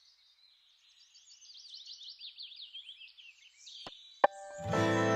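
A small songbird chirping in quick, rapid notes. Near the end there are two sharp clicks, the second one loud, and then strummed guitar music begins.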